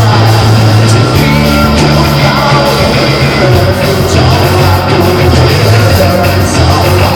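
Live band playing loud rock music, with a heavy sustained bass line that changes note about a second in and again midway.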